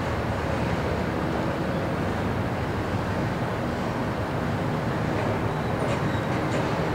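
CSX double-stack intermodal freight train rolling slowly past, a steady low rumble of the cars on the rails.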